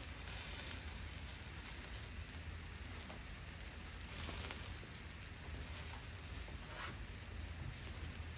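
Steady hiss with a few faint crackles from a wood campfire, with offal grilling over it and rain falling.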